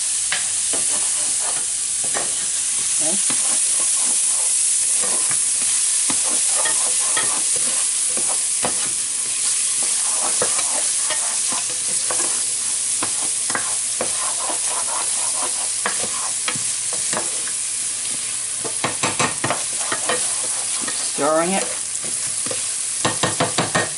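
Finely chopped onion sizzling as it fries in melted butter in a hot pan, with a utensil scraping and stirring through it. Near the end there are two short runs of quick knocks.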